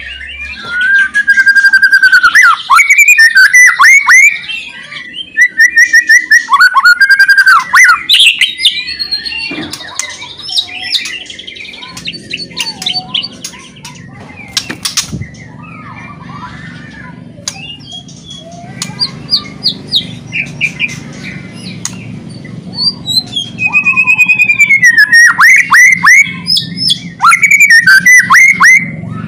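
White-rumped shama (murai batu) singing loud, varied whistled phrases in bursts. Through the middle there is a quieter stretch of softer notes over a low hum, and the loud song returns near the end.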